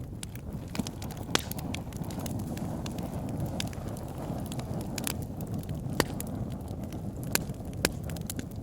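Campfire burning with a steady low rush of flames and sharp, irregular crackles and pops from the burning wood.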